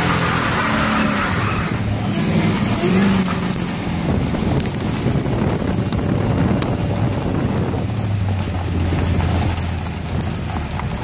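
Whipple-supercharged V8 of a 2015 Ford Mustang revving hard and unevenly during a burnout, the rear tyres spinning on the pavement. About eight seconds in the engine settles to a steadier, lower note.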